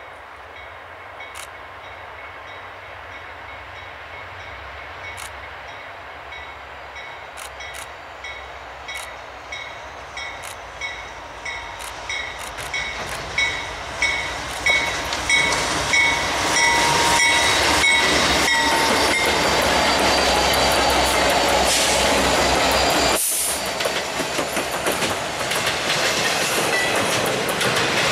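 Norfolk Southern diesel freight locomotives approach and pass, their rumble and wheel noise growing louder, with the wheels clicking rhythmically and a bell ringing steadily until about two-thirds of the way in. Then double-stack intermodal cars roll by with a steady clickety-clack.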